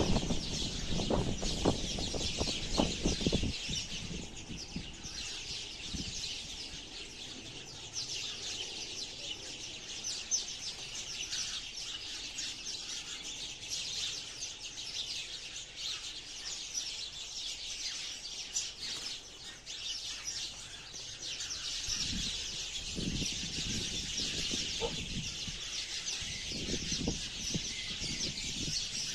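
A flock of sparrows chirping and chattering continuously, many short overlapping chirps. A few low thuds come in the first few seconds and again near the end.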